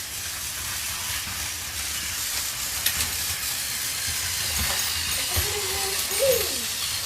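Battery-powered Plarail Edward toy train running on plastic track: a steady whirring rattle of its small motor, gears and wheels, with a few light clicks at the rail joints.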